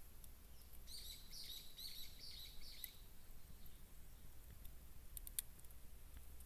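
A small bird singing a quick run of chirping notes about a second in, lasting two seconds, over a faint low rumble. A few sharp clicks follow near the end.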